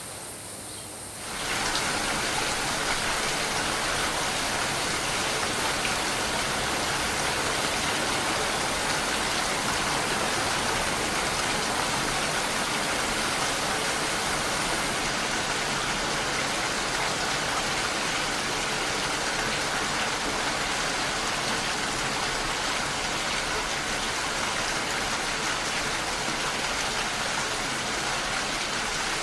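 Steady rain, an even hiss with no distinct drops standing out. About a second in it jumps abruptly louder and brighter, as if the recording were spliced, then holds steady.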